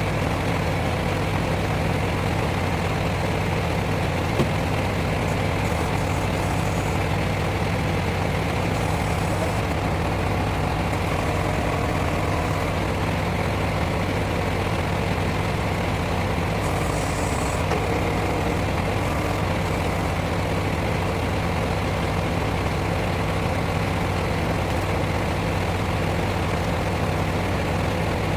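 Lorry's diesel engine running steadily at idle.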